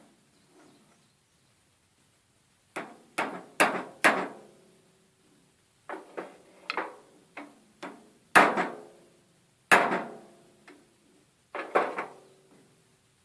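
Hammer tapping a new U-joint's bearing cap into an axle-shaft yoke: about a dozen sharp metal strikes in irregular groups, each ringing briefly, the loudest about eight seconds in.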